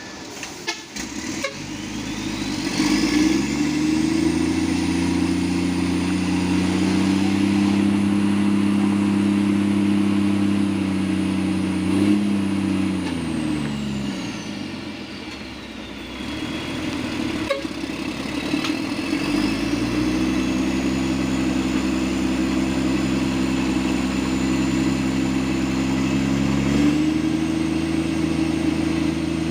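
Truck engine revving up and holding high revs, easing off about halfway through, then revving up again and rising another step near the end. A high whine rises and falls with the engine speed.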